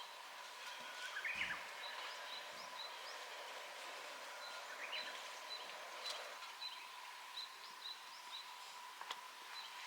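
Quiet outdoor ambience: small birds chirping, short high calls repeating about once a second with a few rising chirps, over a faint steady hum, with a couple of sharp clicks.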